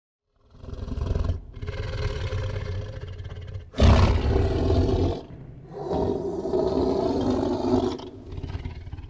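An animal's deep, rasping roar-like calls, several long ones in a row with short breaks, the third the loudest.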